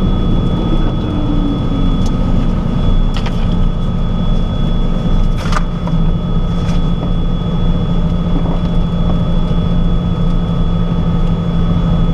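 Twin piston engines of a Cessna 421C running steadily, heard from aboard the aircraft, with a steady low hum and a thin steady whine above it. A lower tone falls in pitch over the first second or two, and a few faint clicks come through.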